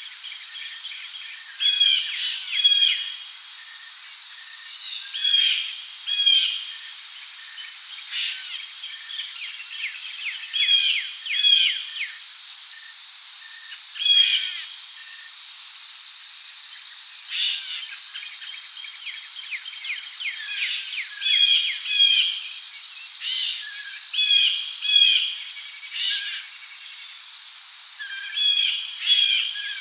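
Rainforest ambience: a steady high-pitched insect drone, with birds giving short chirping call phrases every second or two over it.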